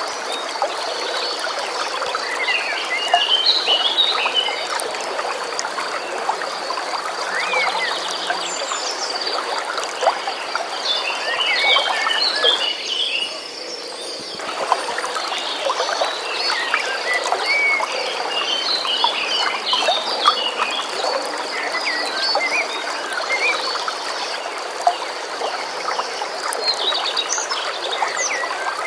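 Nature ambience of flowing water with a steady high-pitched trill and repeated clusters of short chirping calls from birds or frogs. The high sounds drop out briefly about 13 seconds in.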